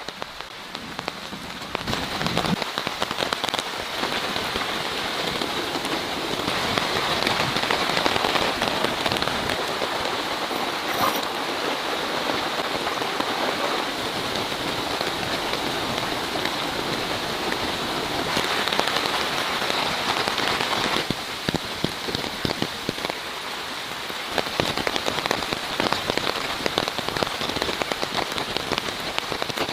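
Heavy rain falling steadily, a dense patter of drops hitting a surface, swelling louder at times.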